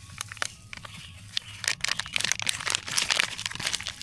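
Bone broth packets being crinkled and torn open: a quick, irregular run of plastic crackles, busiest in the second half.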